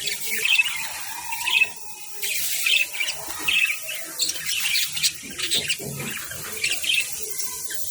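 Budgerigars chattering: many short chirps, one after another.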